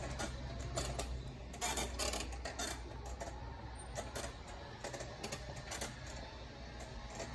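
Store ambience: a steady low hum with irregular clicks and knocks.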